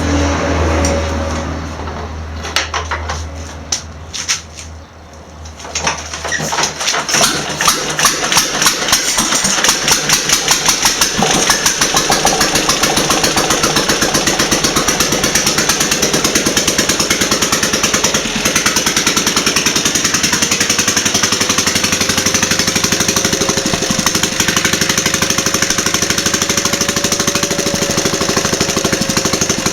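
Bernard T2 engine starting: after a few separate knocks it catches about six seconds in, its firing beats speeding up and settling into a steady fast running rhythm.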